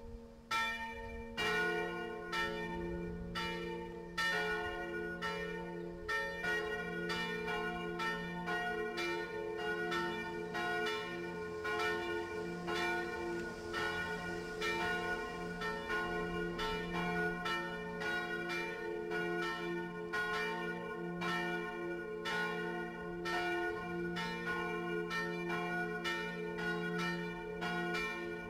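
Swinging church bell, the 660 mm bronze bell cast by Borchardt Gelgeter in 1596, striking evenly about twice a second, each stroke ringing on into the next.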